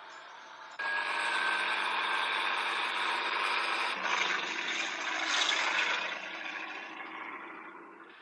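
Vehicle engines and road noise at highway speed. The sound cuts in abruptly about a second in, changes sharply about four seconds in, and fades near the end.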